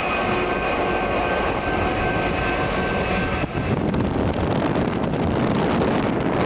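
Diesel locomotives of a freight train passing close by, their engines running and wheels rolling on the rails. Wind buffets the microphone, more so in the second half.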